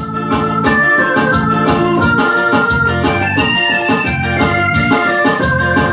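Electronic keyboard playing a melody in an organ voice over a steady beat.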